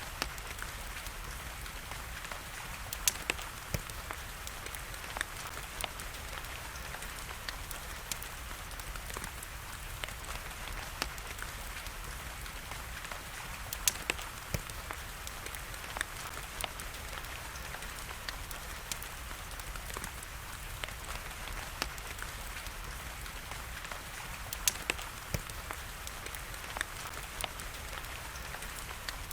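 Wood fire crackling with irregular sharp pops, a few louder than the rest, over a steady hiss of rain.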